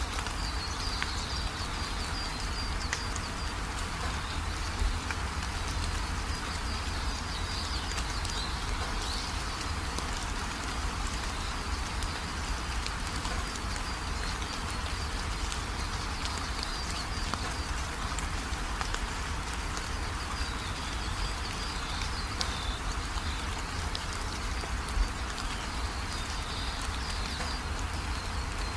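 Steady rain falling, an even hiss with many small drop ticks. A faint high chirping comes and goes over it.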